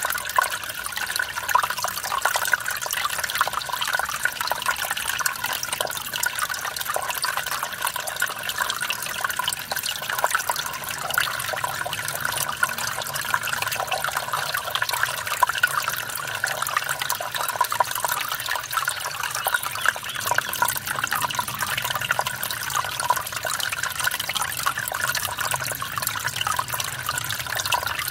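Mountain stream splashing over a small waterfall: a steady, even rush of water with fine bubbling and splashing detail.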